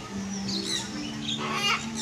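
Birds chirping in two short bursts of high calls, one about half a second in and one near the end, over steady low background tones.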